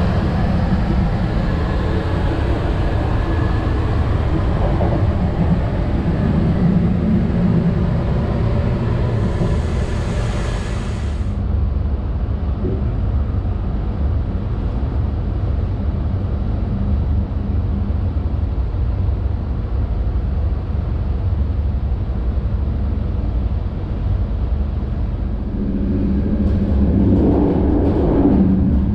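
Interior running noise of a loco-hauled Trenitalia Intercity passenger coach at speed: a steady low rumble of wheels on rail. The higher hiss drops away abruptly about eleven seconds in, and the rumble swells near the end.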